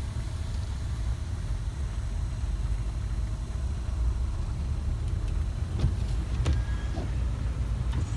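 Steady low rumble of a car driving, with a few faint clicks about six to seven seconds in.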